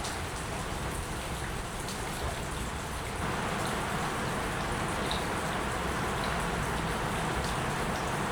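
Steady rainfall hissing, with scattered small drop ticks; it grows louder about three seconds in.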